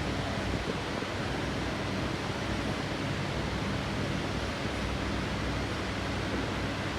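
Steady rushing background noise with a low hum underneath, unchanging throughout, with no distinct tool or part sounds.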